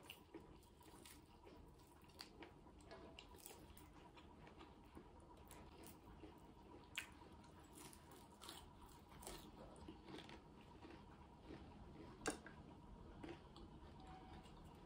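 Quiet, close-miked eating sounds: a person biting and chewing fried bitter gourd and rice by hand, with small wet mouth clicks and squishes. Two sharper clicks come about halfway through and again near the end.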